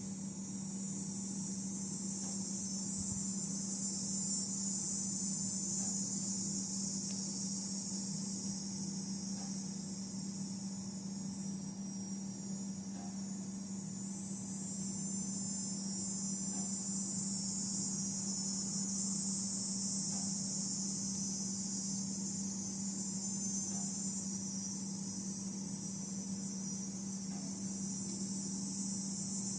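Steady high-pitched insect chorus that slowly swells and eases, over a low steady hum.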